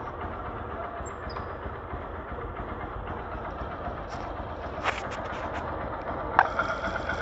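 Motorcycle engine idling steadily. A sharp click comes near the end, after which a steadier, higher mechanical whirr joins the running sound.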